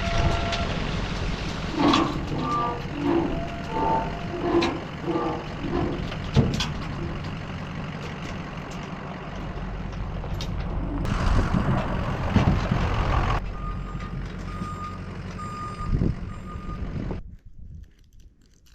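Ford F550 dump truck running with its back-up alarm beeping regularly, a louder rushing stretch about eleven seconds in, then the engine shuts off suddenly about a second before the end.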